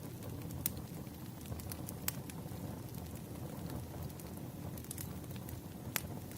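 Wood fire burning: a steady low rumble of flames with frequent crackles and a few sharp pops from the burning logs, the loudest about two seconds in and about six seconds in.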